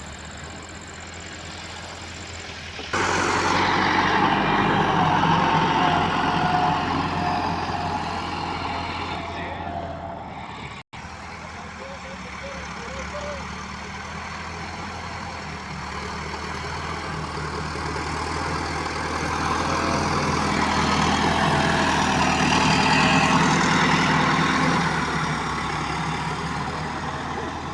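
Tractor engine running steadily under working load. It gets suddenly louder about three seconds in, cuts out for an instant near the middle, then builds louder again later on.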